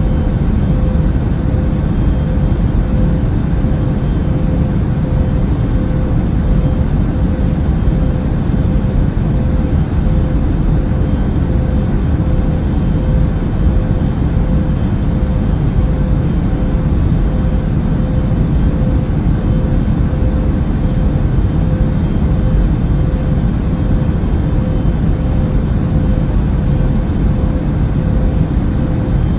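Airbus A380 cabin noise in cruise flight: a steady, unchanging low rush of engine and airflow noise with a faint steady hum.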